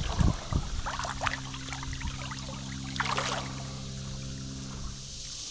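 Shallow creek water splashing and sloshing in a few short bursts, the largest about three seconds in, over a steady low hum.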